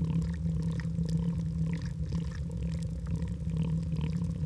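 A lion making a low, steady rumble.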